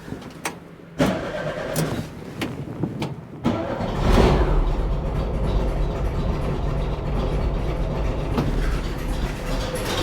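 Rebuilt 1950s VW Bus air-cooled flat-four engine being started: a few seconds of irregular clicks and knocks, then it catches about three and a half seconds in, runs up briefly, and settles into a steady idle while its idle mixture is still being set.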